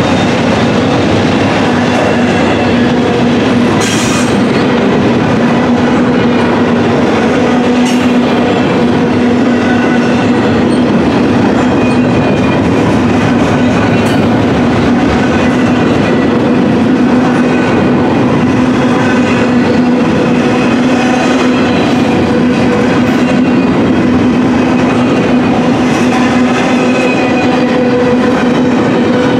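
Double-stack intermodal well cars rolling past close by: a loud, steady rumble and clatter of wheels on rail, with a steady tone running through it and a few sharp clicks.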